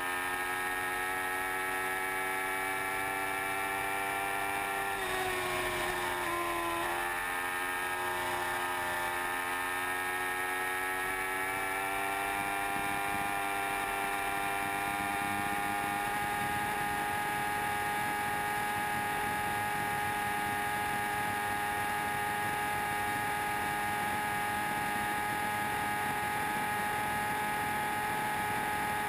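Yamaha R1 sportbike's inline-four engine at full throttle near its top speed, heard on board with wind rushing past. Its note drops briefly about five seconds in, climbs slowly back, then holds at a steady high pitch.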